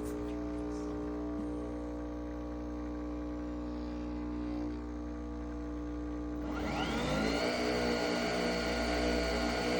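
Nespresso Vertuo Pop+ coffee machine running a brew: a steady motor hum that, about six and a half seconds in, spins up in a rising whine and holds a higher, louder pitch as the capsule is spun for extraction.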